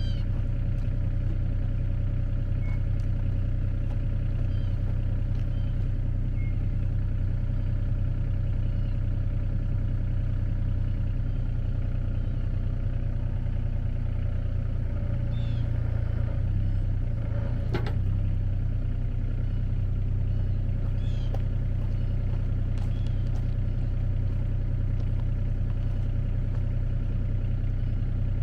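A vehicle engine running steadily with a low, even drone, with a single sharp knock about eighteen seconds in.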